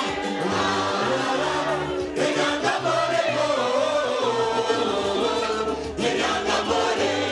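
A group of voices singing a welcome song to live band accompaniment, with a steady repeating bass line under the melody.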